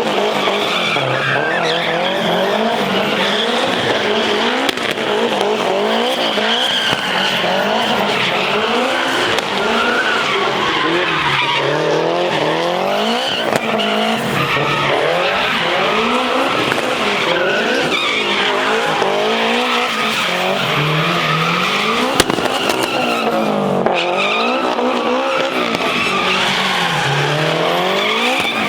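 A vehicle doing a burnout: the engine revs up and down over and over while the spinning tyres squeal and skid continuously.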